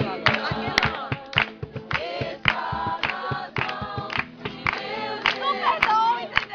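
A group of voices singing a worship song together, with a steady rhythmic beat underneath.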